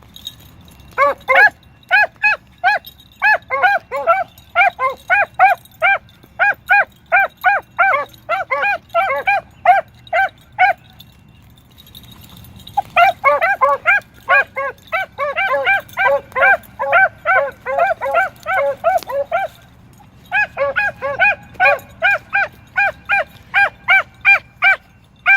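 Beagle hounds barking on a rabbit's trail in a fast, steady run of barks, about three a second, with two short breaks, the first about eleven seconds in. This is the sound of the pack driving the rabbit.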